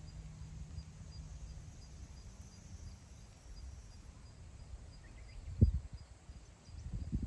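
Wind blowing across open grassland and buffeting the microphone with a low rumble, with one sharp gust a little past halfway and more gusting near the end. A faint high ticking repeats about three times a second underneath.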